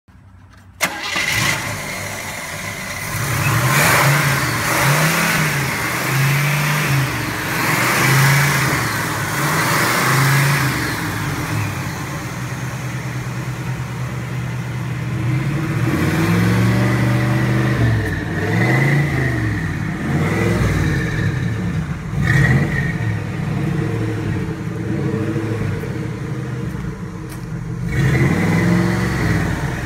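1971 Chevrolet El Camino's carbureted V8 running loudly, revved up and let back down over and over. It cuts in abruptly about a second in.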